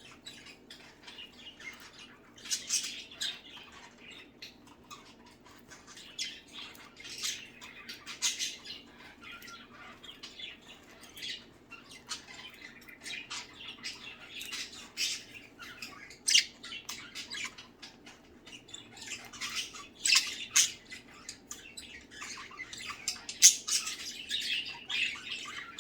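Several pet budgerigars chattering together, a steady stream of short chirps and squawks with a few louder calls.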